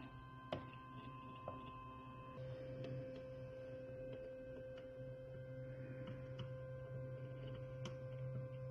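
Steady electrical hum with a few faint clicks; about two and a half seconds in, a higher tone stops and a lower steady tone takes over.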